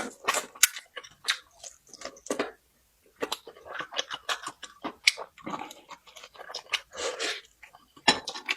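Close-miked chewing and crunching of food, with quick irregular crisp clicks and wet mouth sounds and a short pause about two and a half seconds in.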